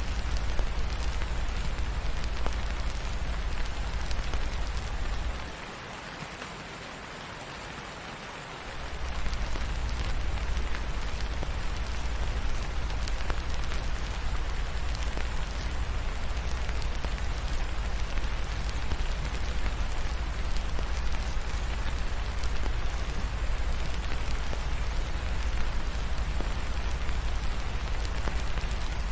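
Steady rain falling, with a deep low rumble underneath. The rumble drops away for about three seconds some five seconds in, then comes back.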